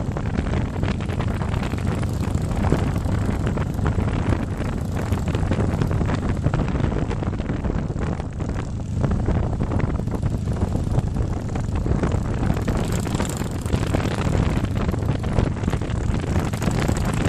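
Motorcycle engine running steadily under heavy wind rush on the microphone, as from a camera on a moving bike.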